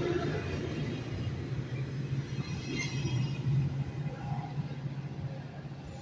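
Metrolink commuter train pulling out, its rear cab car rolling past and then away: a steady low rumble of wheels on the rails that fades toward the end.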